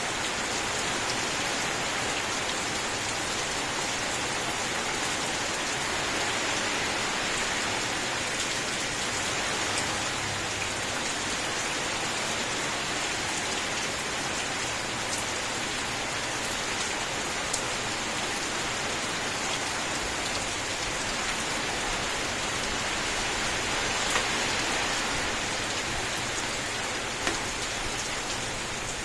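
Steady rain falling, an even continuous hiss of drops, with a few single louder drop hits standing out now and then.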